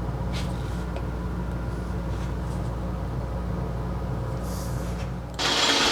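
A lathe's motor running with a steady low hum and a few faint clicks. Near the end the sound switches abruptly to a louder hiss as the lathe turns the plastic hose fitting.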